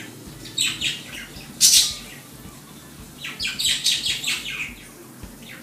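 Bird chirping in short bursts, loudest about a second and a half in, with a longer run of chirps in the second half.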